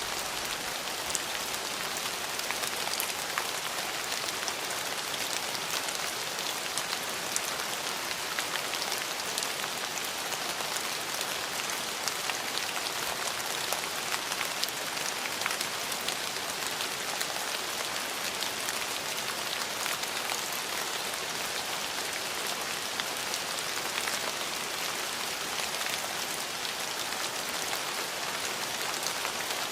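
Steady rain falling on hard surfaces, a dense even hiss with many fine drop ticks.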